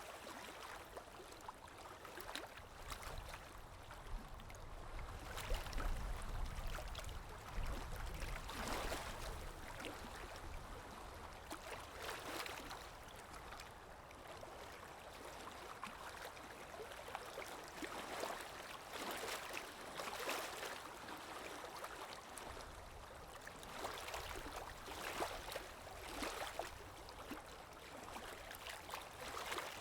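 Water lapping in irregular small splashes, with a low wind rumble that swells now and then.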